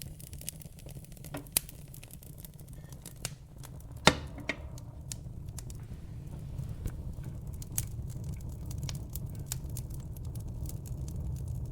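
Wood logs burning in a fireplace, crackling with scattered sharp pops over a low steady rumble, and one loud pop about four seconds in.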